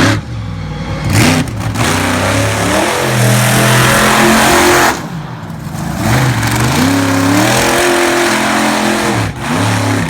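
Monster Lobster monster truck's engine revving hard, its pitch rising and falling as the throttle is worked. The engine backs off briefly about halfway through, then revs up again.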